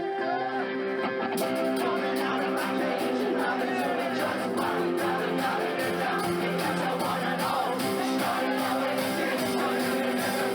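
Live rock band playing a song: guitar with a singing voice, and drums and cymbals coming in about a second and a half in with a steady beat.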